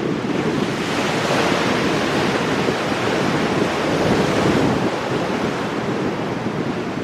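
Ocean surf breaking on rocks: a continuous rush of churning water, with a wave's hiss swelling up about a second in and easing off near the middle. Wind buffets the microphone underneath with a low rumble.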